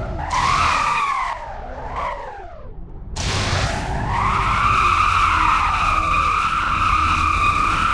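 Car tyres squealing, with engine rumble underneath. Short squeals that bend up and fall away in the first few seconds are followed, about three seconds in, by one long, steady squeal.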